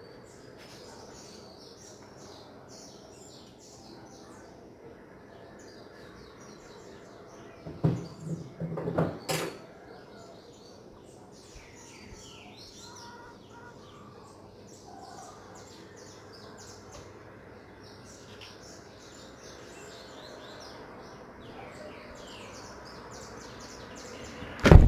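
Small birds chirping repeatedly in short high notes, with a short cluster of clattering knocks about eight seconds in. Loud bumps of the phone being handled come right at the end.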